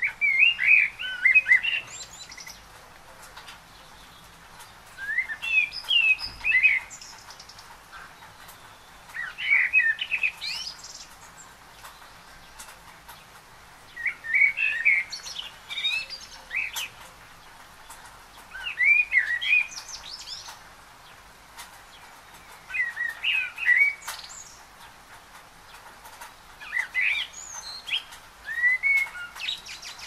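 A songbird singing short warbling phrases of quick rising and falling notes, seven phrases about four seconds apart.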